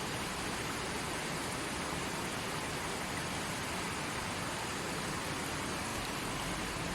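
Creek water flowing steadily over rocks, an even rushing with no breaks.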